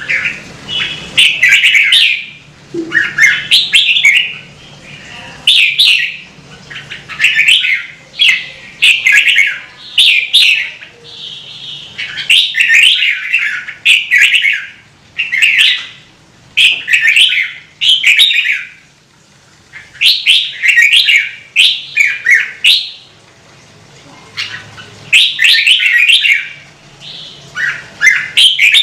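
Red-whiskered bulbul singing: loud, short warbling phrases repeated one after another, each about a second long with brief pauses between.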